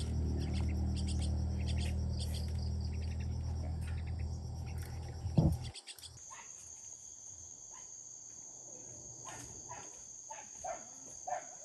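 Insects trilling steadily, with a few short bird chirps in the second half. A low steady hum runs under the first half and ends with a single loud knock about halfway through.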